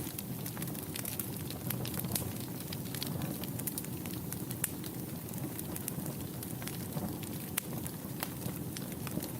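Fireplace fire crackling: a steady low rush of burning flames with frequent irregular sharp pops and snaps.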